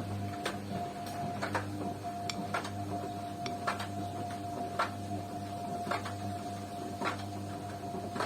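Beko washing machine turning its drum during the wash: a steady motor hum and whine, with a sharp click or knock about once a second as the drum goes round.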